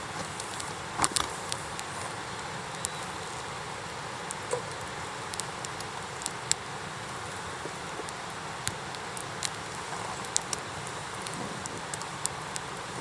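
Wood campfire crackling in an iron fire pit, with sharp pops at irregular intervals.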